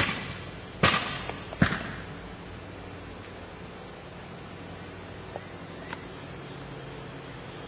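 Steady high-pitched insect trilling, with sharp knocks at the start, about a second in and again just after, each ringing briefly.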